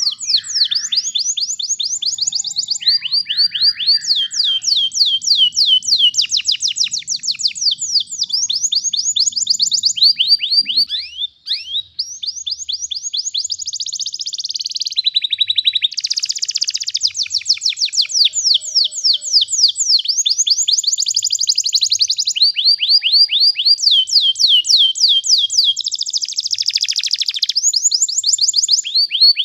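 Domestic canary singing long, fast rolls of repeated downward-sweeping notes, changing from one trill to the next every second or two, with a short break about eleven seconds in.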